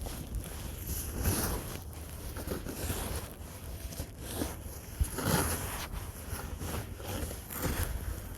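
Snow being scraped and pushed off a buried car, in irregular strokes a second or two apart, over a steady low rumble on the microphone.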